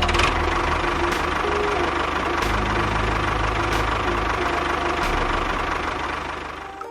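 An engine running steadily with a dense, rattly noise and a low rumble. It starts suddenly and eases off just before it stops near the end.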